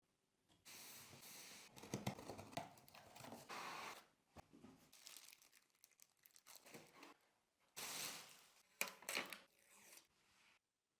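Packaging being unwrapped: tearing and crinkling in a string of short bursts, with a few sharp clicks.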